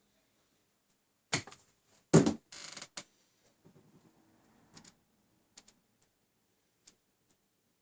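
Handling noise: a sharp knock, then a louder one with a short scrape or creak, followed by a few faint clicks.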